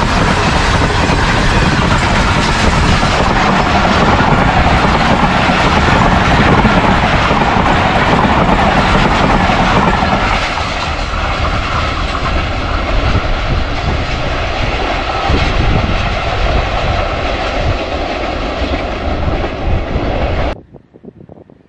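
Passenger train coaches passing at high speed on the adjacent track: a loud, steady rush of wheels and rattling on the rails. About halfway through the last coach goes by and the sound drops and falls away as the train recedes, then cuts off suddenly near the end.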